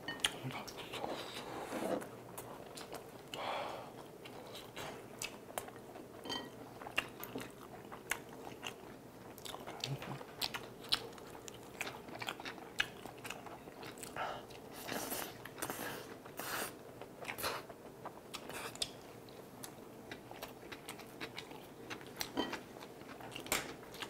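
Close-miked eating sounds: chewing and biting on spicy tteokbokki rice cakes, with many short sharp clicks scattered throughout.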